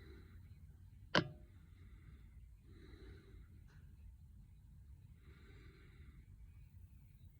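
A single sharp click or tap about a second in, over low room rumble, with a few soft breaths after.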